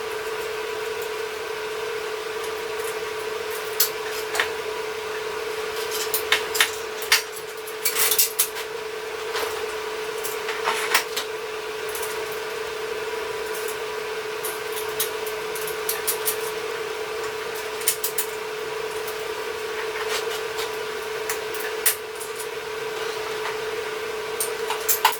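Scattered clinks, knocks and rubbing of hard parts being handled at a workbench, over a steady electrical hum.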